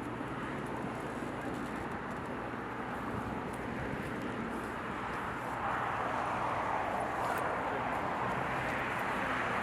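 Jet airliner engines, a steady rush that grows gradually louder and steps up a little past halfway through.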